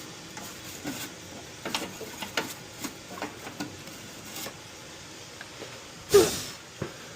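Metal parts clicking and rattling as furnace burner components are handled and cleaned, with a run of sharp clicks over the first few seconds. About six seconds in comes one short, loud, hissing burst.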